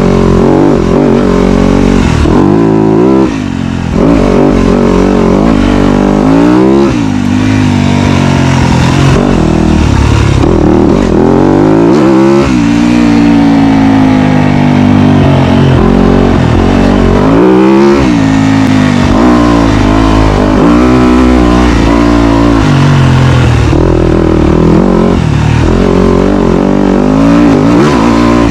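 Dirt bike engine running loud, its pitch rising and falling again and again as the throttle is worked through the gears.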